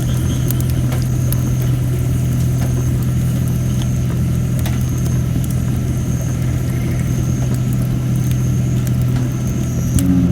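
Campfire of thin, under-dried red robin (Photinia) wood crackling, with scattered sharp pops and an on-and-off thin high hiss from moisture steaming out of the wood. A steady low hum runs under it and is the loudest sound.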